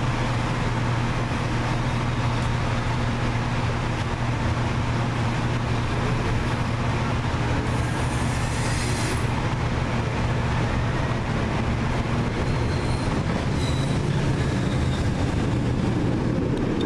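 Steady running noise of a MAX electric light rail car heard from inside, a dense rumble with a low hum, mixed with a double-stack container freight train passing alongside. A brief hiss comes about eight seconds in, and a faint high squeal is heard near the end.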